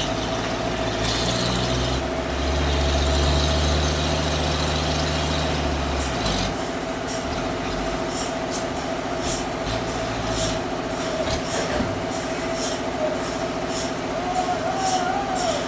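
Sawmill band saw machinery running with a steady hum and a constant whining tone. From about six seconds in, a regular hissing stroke repeats about twice a second.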